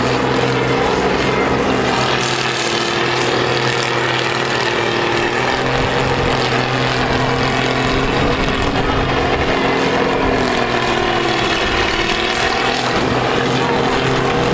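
Several combine harvester diesel engines running together in a steady drone, their pitches rising and falling slowly as they rev.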